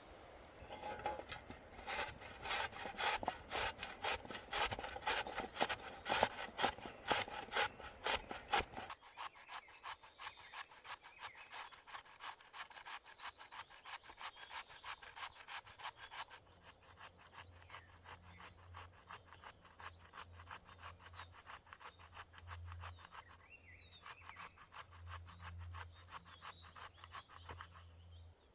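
Hand saw cutting through wood in steady back-and-forth strokes, heavy for the first nine seconds, then lighter and thinner to the end.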